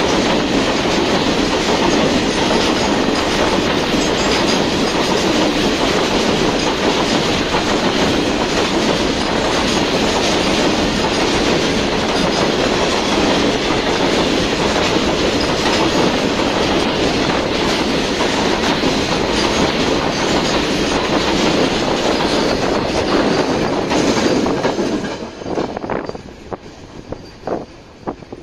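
Freight wagons rolling past at close range, their wheels clattering steadily over the rail joints. About 25 seconds in the noise drops away as the last wagon passes, leaving a few fading clacks.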